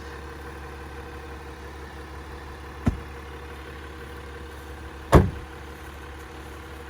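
Jeep engine idling steadily, with two sharp knocks about three and five seconds in, the second louder.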